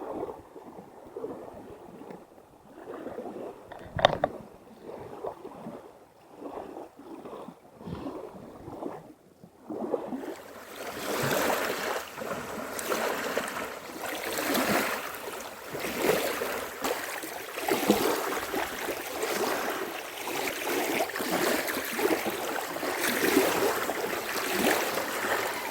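Small waves lapping against the pond's bank with wind gusting over the microphone, growing louder about ten seconds in and swelling and ebbing in roughly second-long pulses. A single sharp click a few seconds in.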